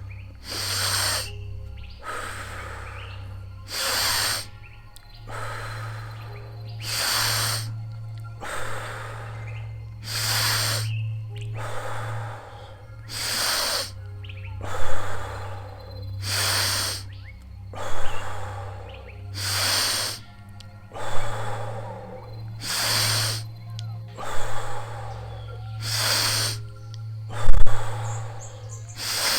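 A person's deep, rhythmic breathing in Wim Hof power-breathing style, a full in-and-out breath about every three seconds, over a low steady music drone. A single thump near the end.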